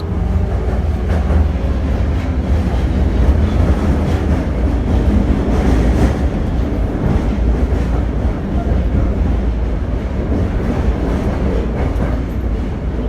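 Tokyo Metro 02 series subway train running on the Marunouchi Line: a steady, loud rumble of wheels on rail and running gear.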